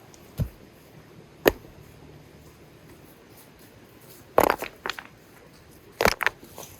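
Scattered sharp knocks of hard objects: a single knock about half a second in, a sharper one about a second and a half in, then two quick bursts of clattering taps, around four and a half and six seconds in.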